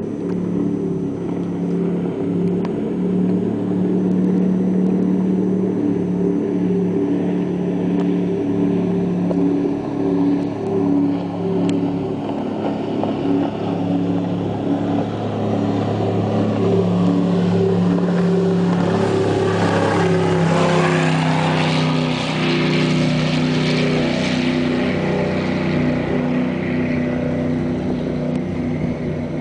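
Baja 290 powerboat's twin 502 cubic-inch big-block Chevy V8s running at speed, a steady engine drone whose pitch wavers slightly. About two-thirds of the way through, a rushing noise of water and wind swells for several seconds and then fades.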